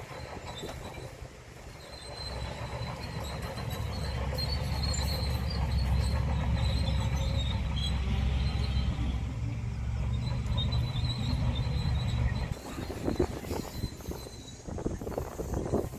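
A bulldozer's diesel engine works under load, growing louder over the first few seconds, with a thin high squeal above it. The engine drone drops away suddenly about three-quarters of the way through, leaving irregular clanking.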